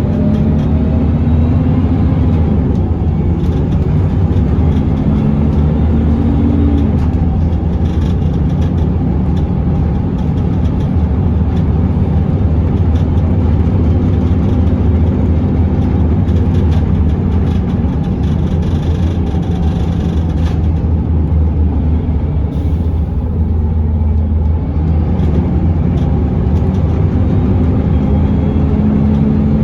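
Scania L94UB bus's diesel engine and ZF automatic transmission under way, heard from on board; the engine note rises and falls as the bus accelerates and slows.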